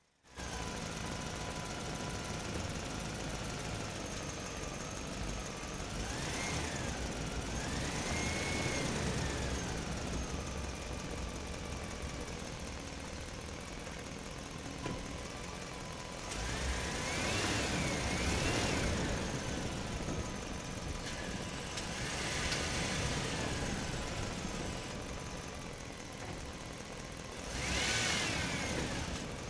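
A vehicle engine running steadily. Its pitch rises and falls several times, as when it is revved up and let back down, and it starts abruptly just after the start.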